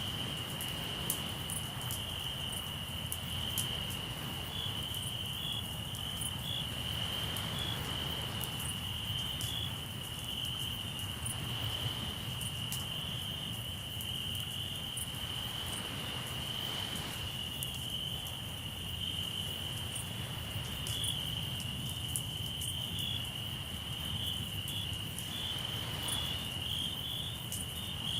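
Crickets chirping in a steady, pulsing high trill, over the sharp little pops and crackles of a wood campfire. Every few seconds a soft wash of sea waves swells and fades underneath.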